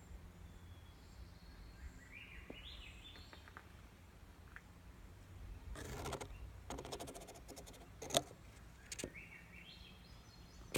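A bird calling twice, each call a short run of notes stepping upward in pitch. Scattered clicks and a couple of sharp knocks come in between.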